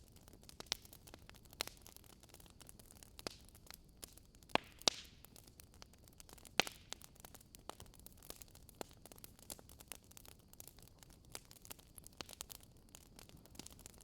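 Wood fire crackling: a steady run of small irregular snaps over a soft hiss, with a few louder pops in the middle.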